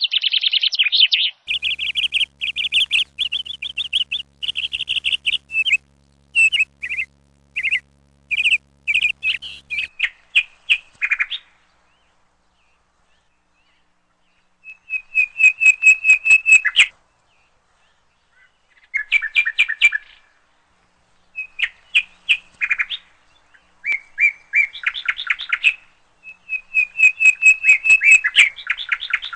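A bird chirping in rapid trains of high, quickly repeated notes, broken by pauses, with a silent gap of a couple of seconds near the middle.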